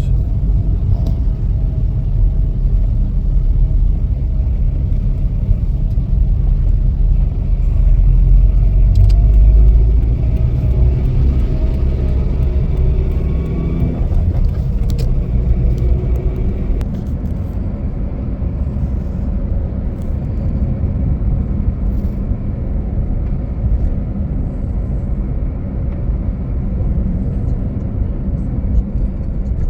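Car engine and road noise heard from inside the cabin while driving: a steady low rumble that swells around ten seconds in and eases a little from about seventeen seconds in.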